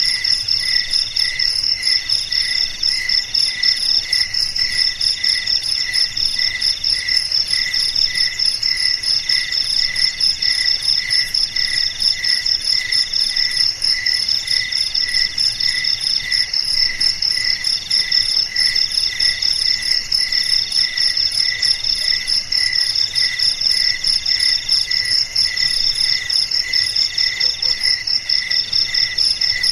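Several crickets chirping together without pause: a continuous high trill with a lower chirp pulsing about twice a second and another call switching on and off in runs of about a second.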